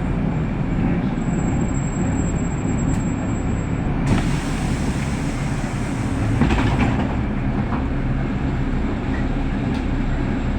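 City bus running, heard from inside the passenger cabin as a steady low engine and road rumble, with two short clattering bumps about four and six and a half seconds in.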